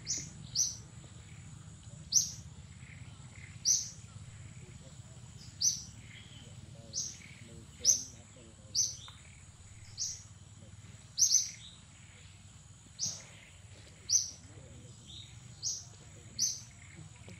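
A bird chirping over and over, short sharp high calls at irregular gaps of about a second, over a steady thin high-pitched whine and low outdoor background noise.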